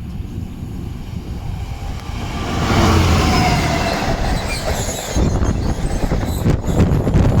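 A train passing close by at speed. The noise builds to a peak about three seconds in, with a few thin high squealing tones from the wheels, then gives way to a rapid clatter of wheels on the rails.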